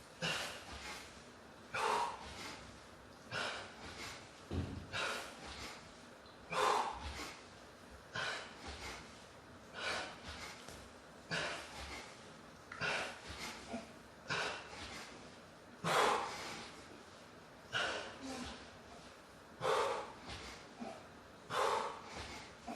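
A person breathing out hard in a steady rhythm while doing sit-ups, one sharp exhalation about every one and a half to two seconds, the gaps growing a little longer near the end.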